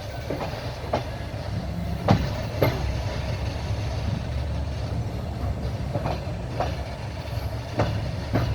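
Train wheels clattering over rail joints while running, over a steady low rumble. The clicks come in pairs about half a second apart, every few seconds.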